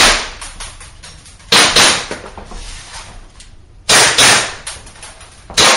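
Pistol shots fired in quick pairs in an indoor shooting range, each crack followed by a short echo: one shot at the start, two pairs a few seconds apart, and another shot near the end.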